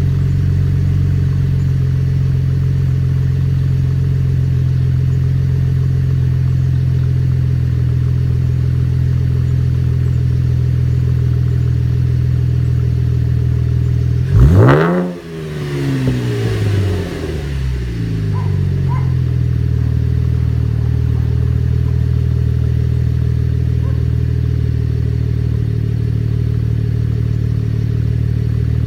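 2014 Chevrolet Camaro's 3.6-litre LFX V6 idling steadily through an MRT V2 aftermarket exhaust with quad tips. About halfway through it is revved once, sharply, and the pitch falls back to idle over a few seconds.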